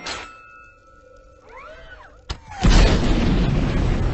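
Film-style sound effects over music: a short steady high tone and some gliding whooshes, then a sudden loud boom about two and a half seconds in that runs on as a deep, rumbling noise.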